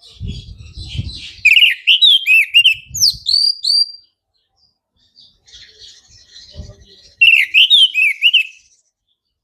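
Orange-headed thrush singing: two loud phrases of fast whistled notes sweeping up and down, one starting about a second and a half in, the other about seven seconds in, with softer twittering between them. Low thumps are heard in the first second.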